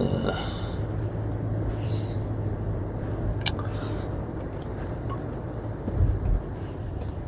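Steady engine and road noise inside a moving taxi's cabin, with a low hum. A single sharp click comes about three and a half seconds in, and a couple of low thumps around six seconds.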